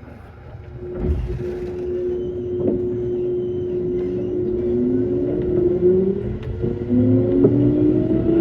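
Kintetsu 9200 series electric train pulling away: a low thud about a second in, then a steady motor tone joined by several tones climbing in pitch as the train accelerates.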